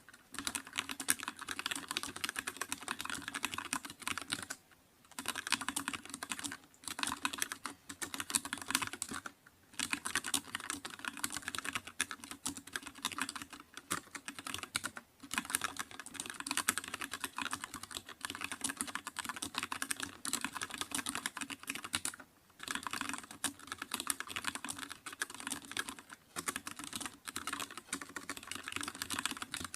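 Fast, continuous typing on a computer keyboard, a rapid run of key clicks broken by brief pauses every few seconds.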